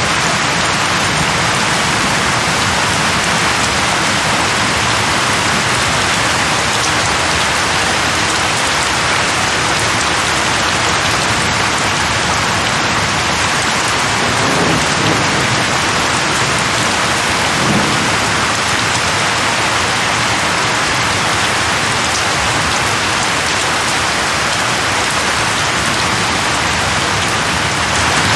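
Steady heavy rain, a dense even hiss of falling water, with two brief low rumbles around the middle.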